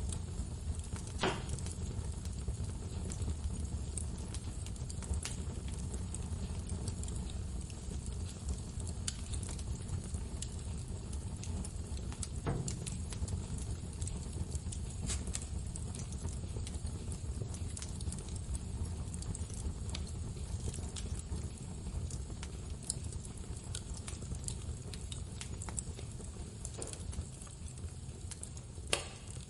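Wood fire crackling: scattered small pops and snaps over a steady low rumble, with a few sharper pops, one about a second in, one near the middle and one near the end.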